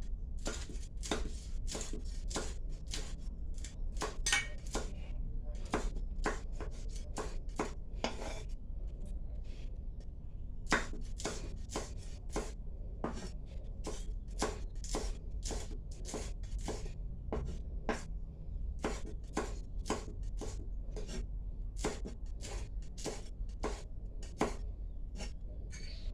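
Knife chopping on a cutting board, sharp irregular strokes about one or two a second, over a steady low hum.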